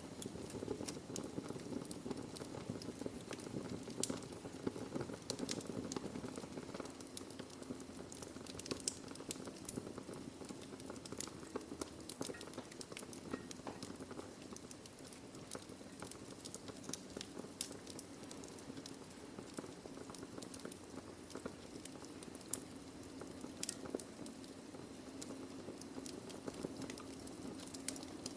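Wood fire crackling: frequent irregular pops and snaps of burning logs over a steady low rushing hiss.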